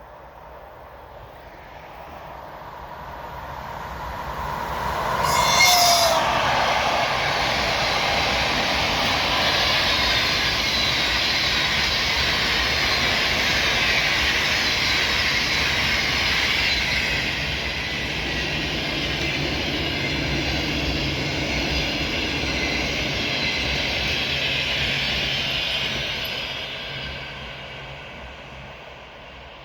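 A train approaching and passing at speed on the line: the noise swells over the first few seconds, with a brief sharp sound as it arrives, holds loud and steady for about twenty seconds as the cars go by, then fades away.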